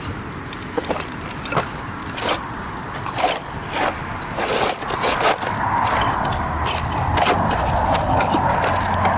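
Wood campfire crackling, with sharp pops every half second or so; from about halfway a steady hiss comes in alongside the crackle and holds.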